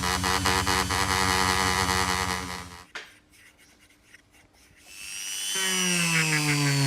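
A small electric power tool buzzes steadily and stops just under three seconds in. After a near-quiet pause with a few faint ticks, it starts again and its pitch falls steadily.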